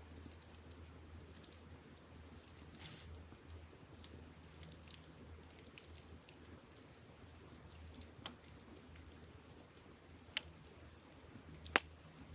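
Wood campfire crackling, with scattered sharp pops, the loudest two near the end, over a low steady hum.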